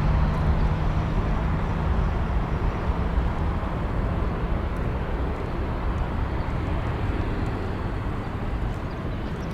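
Jet airliner taking off, its engine roar a deep, steady rumble that slowly fades as the aircraft climbs away.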